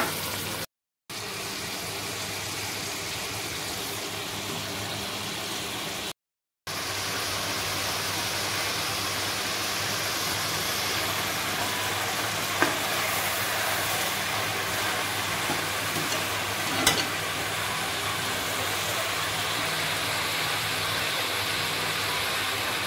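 Chicken pieces frying in hot ghee in a metal karahi: a steady sizzle, with a couple of light knocks from the metal ladle around the middle. The sound drops out twice briefly in the first seven seconds.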